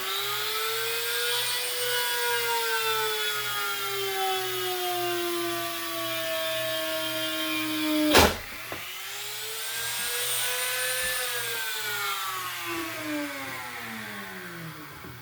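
Electric drill boring a hole through a small piece of wood held in a vise. The motor pitch climbs as it spins up, then sinks steadily as the bit bites in under load. A sharp knock comes about eight seconds in, then the drill spins up again and slows as it keeps cutting.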